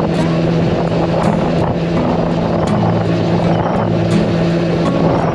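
Yamaha R1-Z's two-stroke parallel-twin engine running at a steady, only slightly varying pitch while the bike is ridden.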